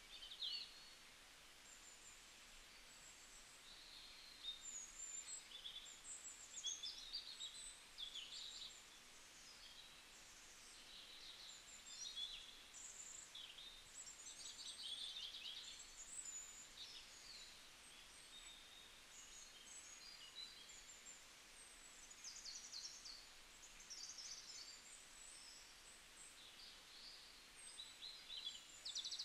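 Faint chirping of small birds, with many short high calls overlapping throughout.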